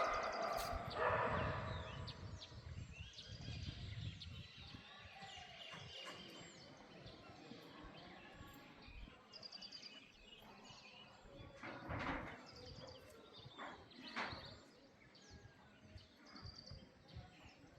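Birds chirping on and off over a steady outdoor background noise. A few louder short calls or knocks stand out, the strongest just after the start and about twelve seconds in.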